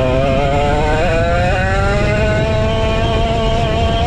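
A vintage Dino go-kart's 135cc Sudam engine running hard. Its pitch wavers briefly, then climbs steadily from about a second in as the kart accelerates.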